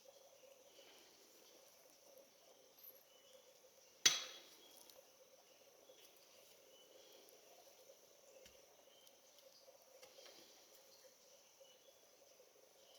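Faint, steady insect chorus, with one sharp knock about four seconds in that dies away within about half a second.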